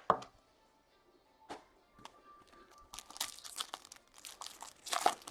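Foil trading-card pack wrappers crinkling and tearing as packs are opened, in quick crackling bursts over the last two seconds.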